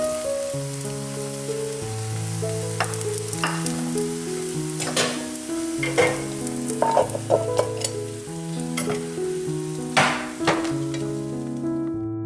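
Shrimp-and-batter pancakes frying in oil in a multi-well cast-iron pan, a steady sizzle. A few sharp taps and scrapes of chopsticks against the pan come through it. The sizzle cuts off near the end.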